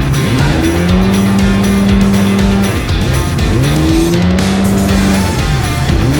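Jet ski engine revving, its pitch holding steady and then dropping and climbing back about every three seconds as the throttle is eased and opened again, with background music over it.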